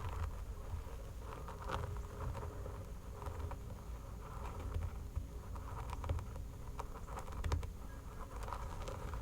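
Fingernails scratching a person's hair and skin: soft, irregular scratching strokes with scattered sharp little clicks.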